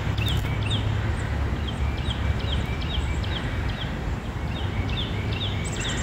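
Small songbirds calling: many short, high chirps, each sweeping down in pitch, repeating quickly over a steady low rumble.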